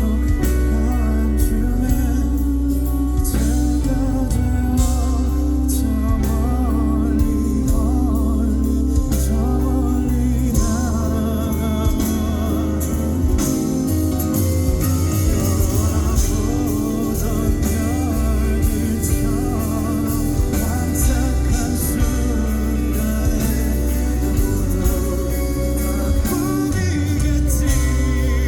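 Live band music with a sung melody over guitar and bass, with a steady beat throughout.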